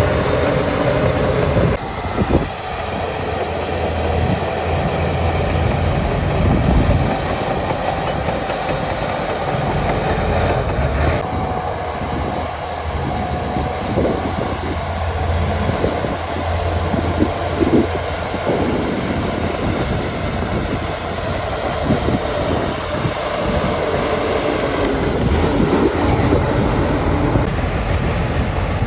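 Shantui crawler bulldozer's diesel engine running under load, with its steel tracks clanking and knocking irregularly as it moves.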